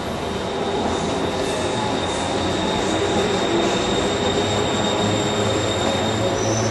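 Bangkok BTS Skytrain electric train running on its elevated track: a steady rumble with a thin high whine, a low hum that swells about four and a half seconds in, and a higher squeal coming in near the end.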